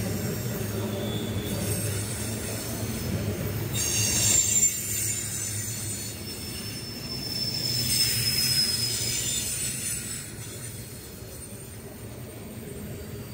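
Freight train cars rolling past: a steady low rumble of wheels on rail with high, thin wheel squeal, loudest about four to five seconds in and again around eight seconds, then easing off.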